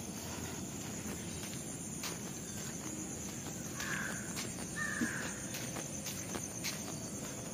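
Two short, harsh bird calls, about four and five seconds in, over steady outdoor background noise with a faint high steady hiss.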